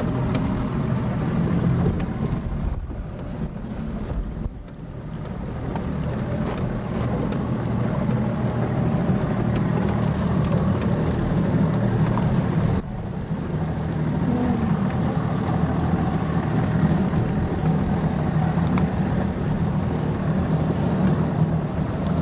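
Motorboat engine running steadily, with wind on the microphone; the sound dips briefly about four seconds in and drops suddenly a little about thirteen seconds in.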